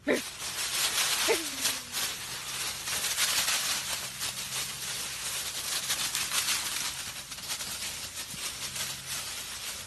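Dry fallen leaves crunching and rustling under a husky's paws as it bounds and plows through a deep pile, a dense, steady crackle. About a second in, a short cry falls in pitch over it.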